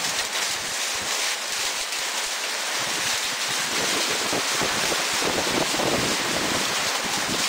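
Heavy hailstorm: hailstones and rain pelting down in a dense, steady hiss, with wind rumbling on the microphone from about three seconds in.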